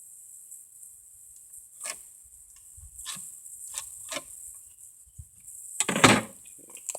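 A few scattered short taps and knocks, the loudest and longest about six seconds in, over a steady high-pitched insect buzz.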